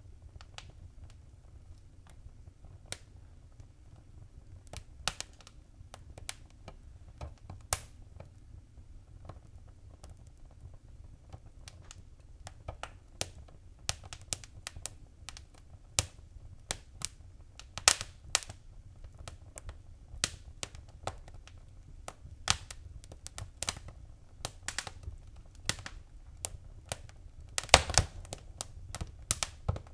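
Wood fire crackling in a fireplace: irregular sharp pops and snaps, sparse at first and more frequent from about halfway, with a quick flurry near the end, over a low steady rumble.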